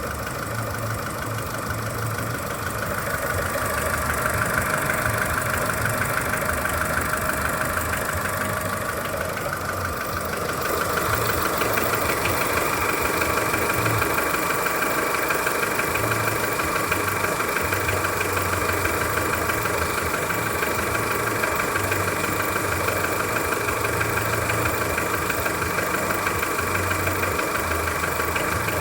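Skoda Fabia 1.4 petrol engine idling with a fast, steady knock that seems to come from low down near the timing-belt end of the engine; the dealer puts it down to piston slap and calls it normal. The sound grows louder about eleven seconds in.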